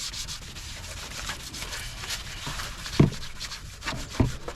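Hand wet-sanding of a plastic headlight lens: rhythmic back-and-forth sandpaper strokes, several a second, with the lens kept wet with water. Two short dull thumps about three and four seconds in.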